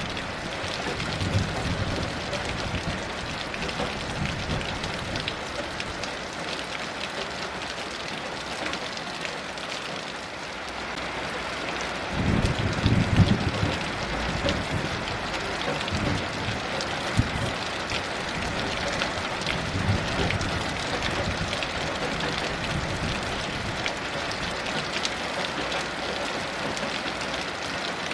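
Heavy rain falling steadily, with low rolls of distant thunder rumbling a few times; the strongest roll comes about halfway through.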